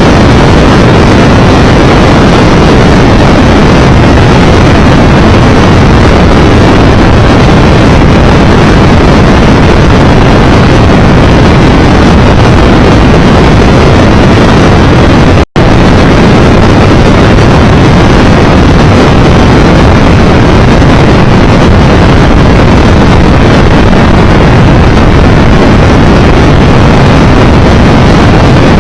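Steady, loud wind rush on the microphone mixed with the road and engine noise of a Triumph Tiger Explorer 1200 motorcycle riding at speed. The sound drops out for an instant about halfway through.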